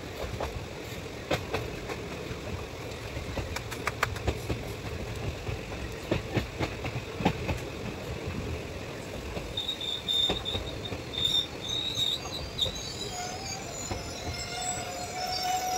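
Passenger train heard from an open coach door, running with the wheels clacking over rail joints and points. From about ten seconds in there is high squealing as it slows into the station.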